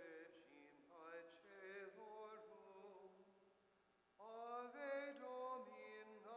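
A man chanting unaccompanied, in phrases of held notes that glide between pitches, with a short pause about four seconds in before the chant resumes.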